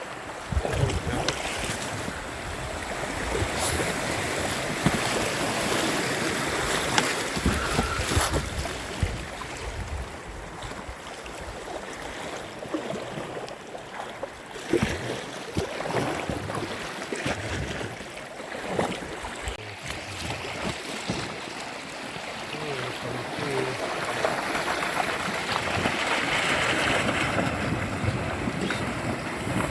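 Kayak being paddled through riverside brush: water splashing and rushing, with scattered knocks and scrapes against the boat, and wind buffeting the smartphone's microphone.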